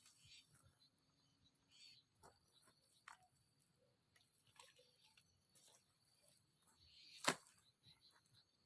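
Near silence with faint rustles and small clicks, broken about seven seconds in by a single sharp chop on wood, such as a blade cutting into a sapling.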